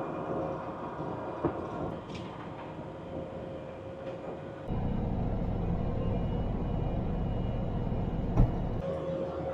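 Compact track loader's diesel engine running steadily, with a sharp metal clank about a second and a half in and a louder one near the end. A heavier low rumble comes in about halfway through and drops away shortly before the end.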